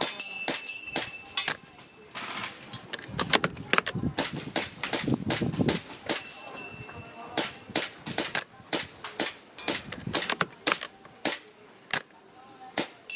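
Airsoft guns firing at a range: a quick run of sharp snaps and clicks, several a second. Gusty wind rumbles on the microphone from about three to six seconds in.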